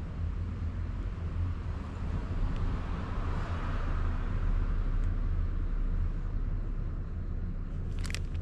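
Honda Grom 125 single-cylinder motorcycle running on the road: a steady low engine drone under rushing wind and road noise. The rushing swells up for a couple of seconds in the middle, and a few short clicks come near the end.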